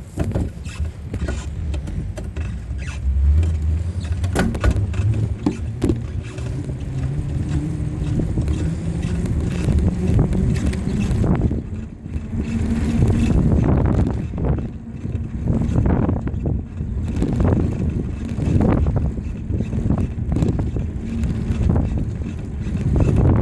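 Riding noise from a bicycle in motion: wind buffeting the microphone with a continuous low rumble, and frequent small knocks and rattles.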